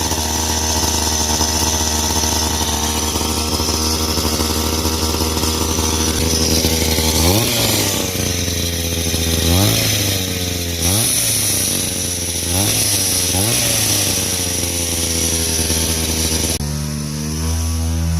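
Kids' dirt bike's brand-new 50cc two-stroke engine running just after starting: a fast steady idle, then blipped on the throttle about five times, each rev rising and dropping back. Near the end it drops suddenly to a lower, steady idle.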